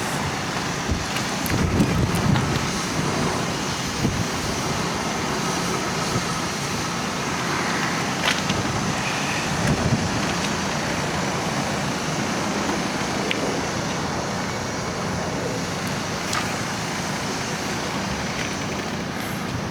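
Steady hum of road traffic passing, with a few faint clicks scattered through it.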